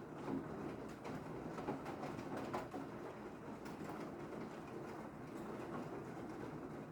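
Steady rain falling, with a few faint drop ticks standing out here and there.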